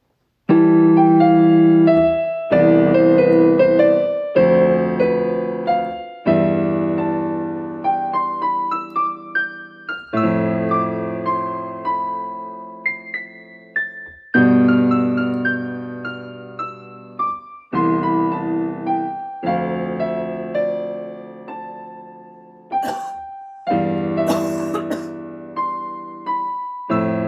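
Slow piano music: chords held over a bass, with a melody of single notes that ring and die away. Two brief noisy swishes come near the end.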